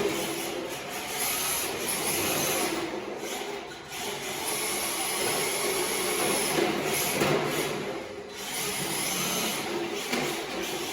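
MST RMX 2.0 RC drift car driving on sticky rubber tires, the tires scrubbing over the floor under a high electric-motor whine, surging and easing as it slides, dipping briefly twice.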